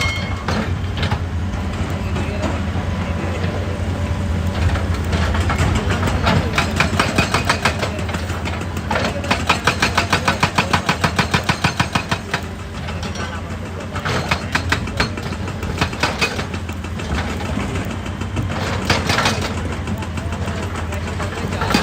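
Hitachi EX200 excavator's diesel engine running steadily under load while a hydraulic breaker hammers rock in bursts of rapid, even blows. The longest burst comes in the middle, with shorter runs of blows near the end.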